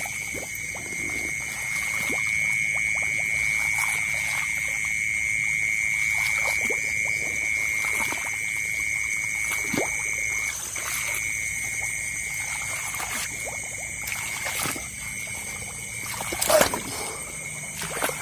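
Night chorus of rice-paddy frogs and insects: a steady, unbroken high trill, with scattered small splashes of water and a louder splash or knock near the end.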